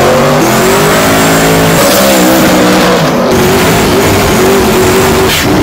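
Twin-turbo 515 cubic-inch big-block Chevrolet V8 in a 1963 Pontiac Tempest, loud and accelerating hard, its pitch climbing and dropping back several times as it revs.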